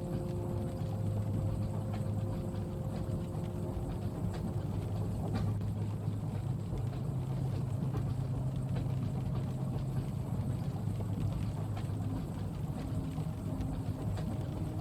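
Steady low rumble of a moving train heard from inside the carriage, with a low hum that shifts slightly in pitch and faint scattered ticks.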